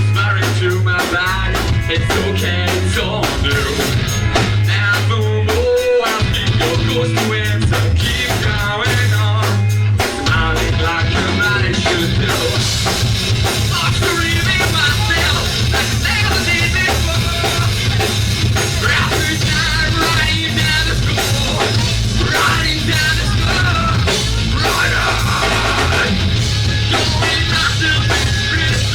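Rock band playing live and loud: drum kit, bass and electric guitar, with a brief break in the beat about ten seconds in.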